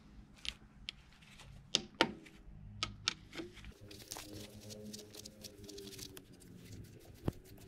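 Metal tools and engine parts clinking and knocking as they are handled: scattered sharp taps with a brief ring, the loudest pair about two seconds in and another near the end.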